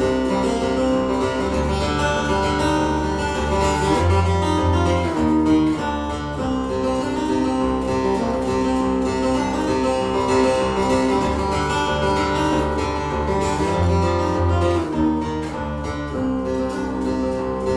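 Acoustic guitar playing an instrumental passage live, with ringing sustained notes and a deep bass note that sounds twice, about ten seconds apart.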